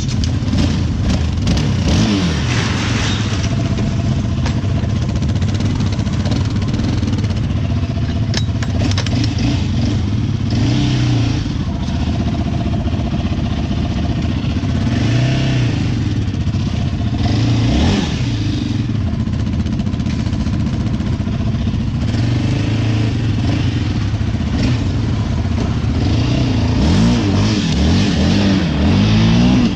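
Off-road vehicle engines running, revving up and down several times, with the busiest revving near the end.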